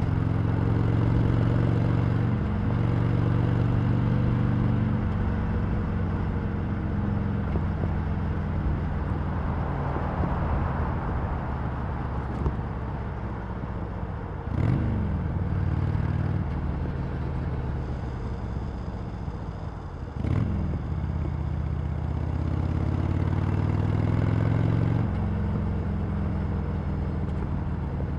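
Harley-Davidson Sportster Iron 883's air-cooled V-twin on its stock exhaust, pulling along under way. Twice, about halfway and about two-thirds in, there is a click and the engine note drops sharply, as in a gear change. Later the note climbs steadily under acceleration, then eases off near the end, with a brief rush of noise about a third of the way in.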